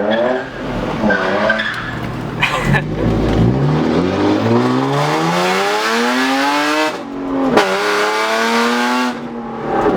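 Straight-piped BMW E36 engine, way too loud, accelerating hard: its pitch climbs for a few seconds, drops briefly at a gear change about seven seconds in, climbs again, then eases off near the end.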